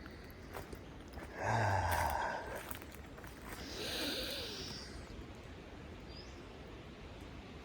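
A person's breathy sigh about a second and a half in, then a softer, higher hiss about four seconds in, over quiet forest ambience.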